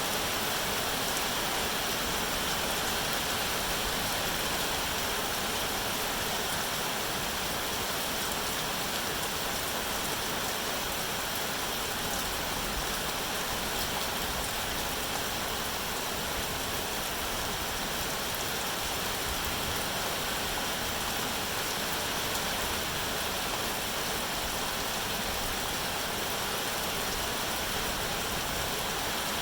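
Steady rain falling, a continuous even hiss without breaks or distinct drops.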